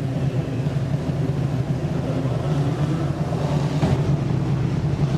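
Vintage race car engine running at a steady, unchanging speed, a low even drone, with a faint short tick about four seconds in.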